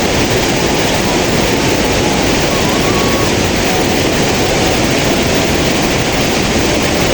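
Steady rushing of a fast-flowing stream, a loud even wash of water noise.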